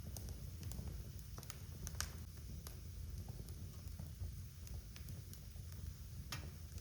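Wood fire crackling in a fireplace: scattered sharp pops and snaps over a low steady rumble, the sharpest pops about two seconds in and near the end.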